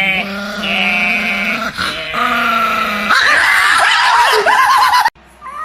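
A dog vocalising: a long, steady low note, then higher, wavering whines about three seconds in, cut off abruptly just after five seconds.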